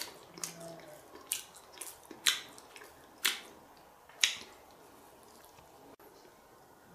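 A man chewing a mouthful of soft cooked pumpkin with open-mouthed wet smacks, about seven sharp smacks spread over roughly four seconds.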